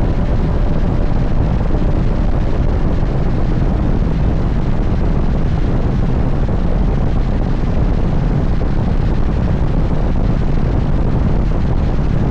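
Steady wind buffeting on the microphone over the running drone of an Indian motorcycle at highway speed.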